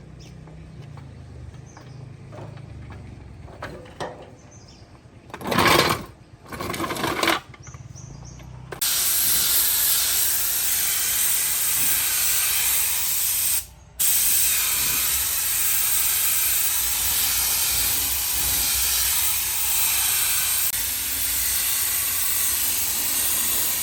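Two short bursts of spraying hiss, then a loud, steady spraying hiss that stops for a moment about 14 seconds in and starts again.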